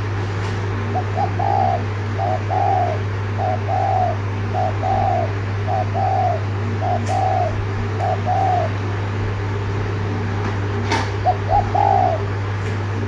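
Spotted dove (cu gáy) giving its rapid 'thúc gù' coo, a run of about seven quick coos, each a short note followed by a longer one. After a pause a few more follow near the end. A steady low hum and one sharp click sit underneath.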